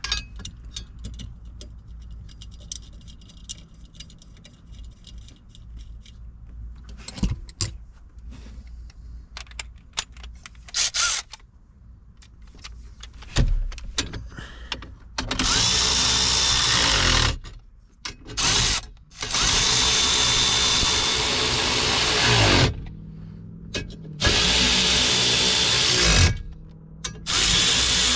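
A power tool running in five bursts of one to three seconds each, a loud even whir with a faint whine, after a stretch of light clicks and knocks from handling parts.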